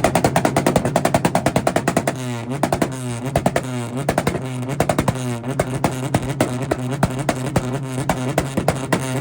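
Honda CRX engine held on a two-step launch-control rev limiter at a steady high rpm, the limiter's ignition cut popping and crackling rapidly through the exhaust.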